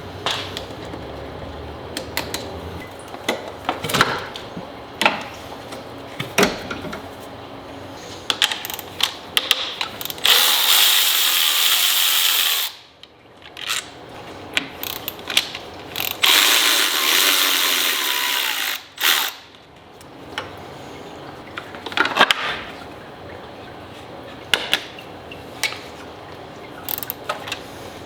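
Hand tools working on a car engine: a ratchet clicking and metal tools clinking in scattered sharp knocks. Twice, a third of the way in and just past halfway, a louder noisy stretch of about two seconds cuts in and stops abruptly.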